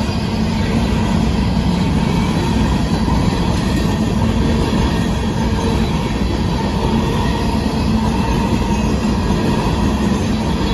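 Covered hopper cars of a freight grain train rolling past: a steady, loud rumble and rattle of steel wheels on the rails.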